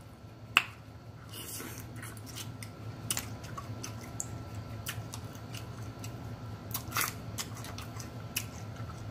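Close-up eating sounds of boiled seafood: wet chewing and lip-smacking, with scattered sharp clicks and smacks.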